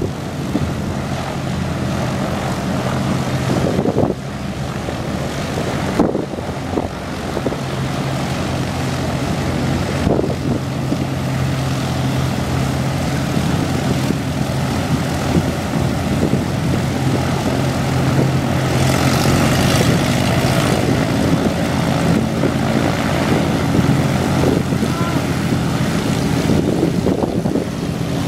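Propeller airplane engine droning steadily, a constant low hum with hiss over it that brightens for a couple of seconds about two-thirds of the way through.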